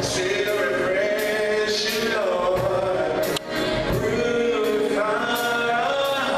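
Gospel choir singing long held notes, backed by a band whose percussion keeps a steady beat.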